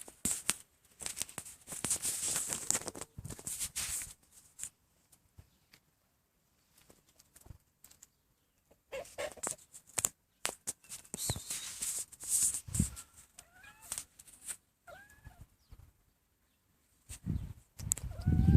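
Chickens clucking, a few short calls that bend in pitch about two-thirds of the way through, among bursts of rustling noise, with heavy thumps near the end.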